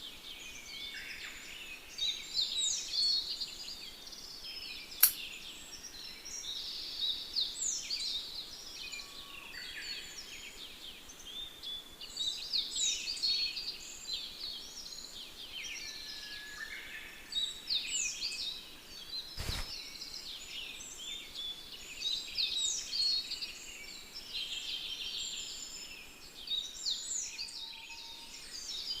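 Songbirds singing short, chirpy phrases that repeat every few seconds, over a steady faint background. A single sharp click about five seconds in, and a brief low bump a little before twenty seconds.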